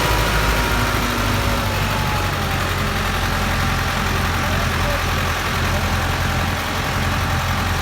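Ford 6610 tractor's four-cylinder diesel engine running at a steady low rumble while it pulls a loaded trolley.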